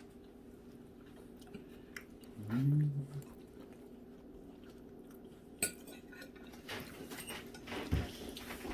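Dishes and cutlery clinking and knocking in a kitchen, over a steady low hum, with a short low voice-like sound about three seconds in.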